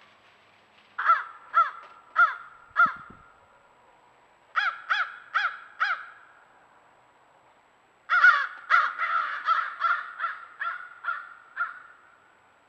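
Crows cawing in three bouts: four caws, then four more, then a longer, quicker run of caws about eight seconds in.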